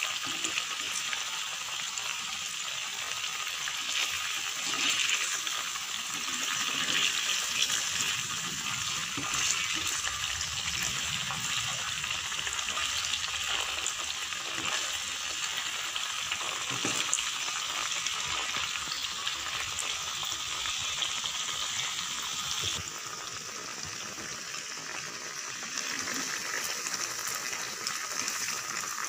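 Tofu cubes deep-frying in hot oil in a pan: a steady bubbling sizzle, with a spatula stirring and turning them now and then. The sizzle eases slightly about two-thirds of the way through.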